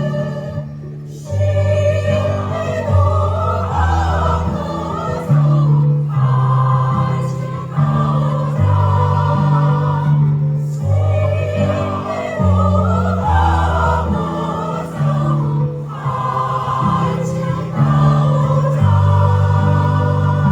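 A community choir singing a song, many voices together over a low bass line that steps from note to note every second or so, with brief breaths between phrases.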